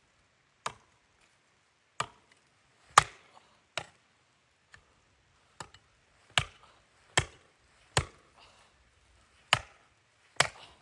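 Wood being chopped: about ten sharp strikes of a blade into wood, roughly one a second at uneven spacing, some harder than others.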